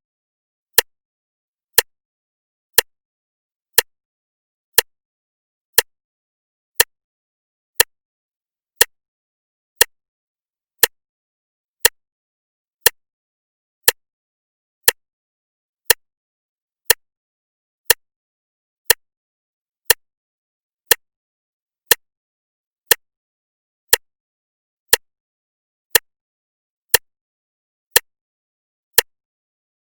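Clock ticking steadily, one sharp tick about every second, with quiet between ticks.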